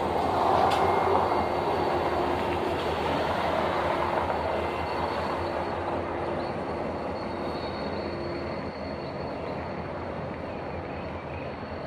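A train rolling past on the rails, loudest in the first couple of seconds and then slowly fading as it moves away, with a thin steady wheel squeal running through the noise.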